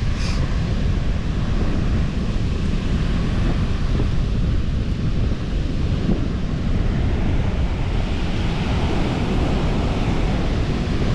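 Strong wind buffeting the microphone as a steady low rumble, with ocean surf underneath.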